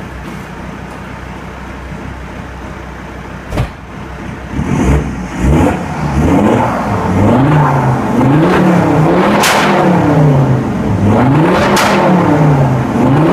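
Alfa Romeo Brera 2.4 JTDM five-cylinder turbodiesel idling, then after a single sharp knock it is revved hard again and again, its pitch climbing and dropping about once a second. A couple of sharp cracks ring out near the top of the revs, the bangs of a tuned anti-lag set-up.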